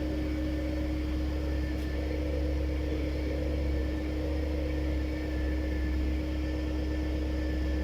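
Volkswagen Phaeton air-suspension compressor running steadily, pumping up the repaired air strut: an even mechanical hum with a low rumble and one steady tone.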